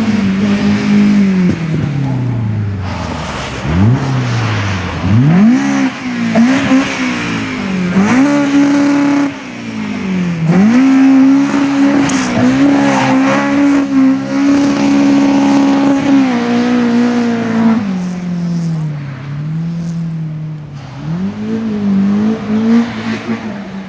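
Rally car engine driven hard: the revs climb and drop repeatedly through gear changes and lifts, hold high for several seconds in the middle, then fall away as the car slows.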